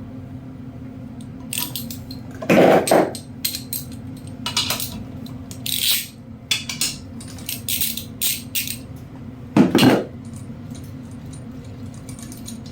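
Metal tools and engine parts clinking and clunking as they are handled, with two heavier clunks, one about two and a half seconds in and one near ten seconds, and lighter clinks between them. A steady low hum runs underneath.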